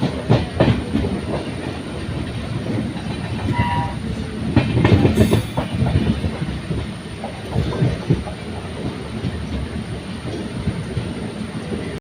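Train moving along the track, its wheels clacking over the rail joints above a steady rumble, loudest about five seconds in.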